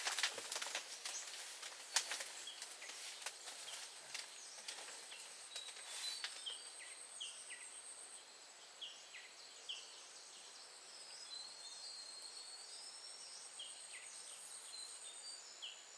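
Outdoor nature ambience: repeated short chirping calls of small birds or insects, over a thin, steady, high-pitched insect buzz. Scattered sharp clicks fill the first six seconds.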